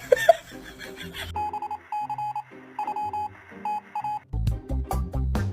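Electronic alarm-style beeping, in repeated groups of rapid beeps on one tone. About four seconds in, music with heavy bass notes takes over.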